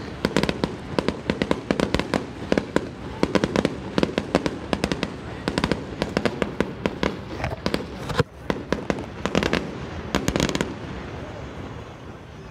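Fireworks going off in a rapid string of sharp pops and cracks, several a second. About ten and a half seconds in the pops stop and a quieter steady hiss is left.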